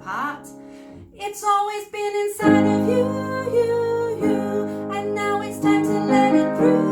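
Singing with instrumental accompaniment: a melodic vocal line over sustained chords, which come in fuller about two and a half seconds in.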